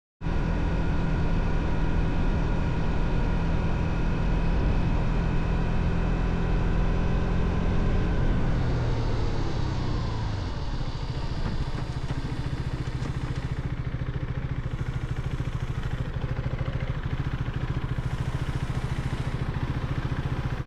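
KTM 390 Duke's single-cylinder engine running at steady revs, then the revs fall away over about two seconds as the bike slows to a stop, and it settles into a pulsing idle for the rest.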